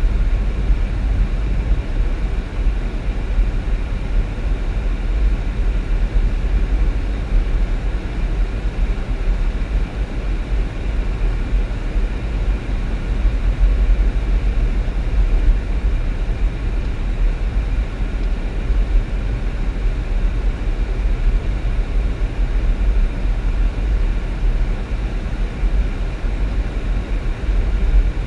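Steady low rumble of a vehicle driving along a road: engine and tyre noise heard from inside the car, unchanging throughout.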